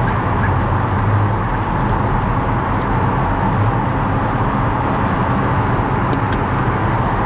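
A car driving at a steady pace: a steady mix of engine and road noise with no change in speed.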